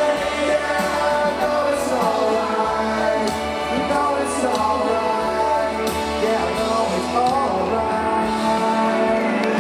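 Live rock band playing through a concert PA, with a voice singing over the music.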